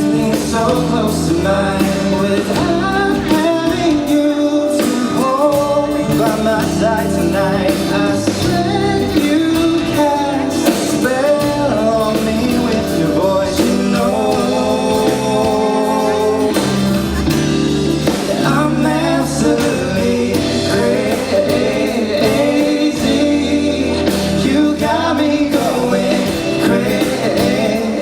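Live pop-rock band playing a song, with a singing voice over guitar and bass.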